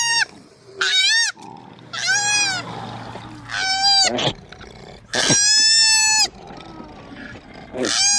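A run of high, wavering animal cries, five of them about a second and a half apart, each rising and then dropping at the end, like bleats.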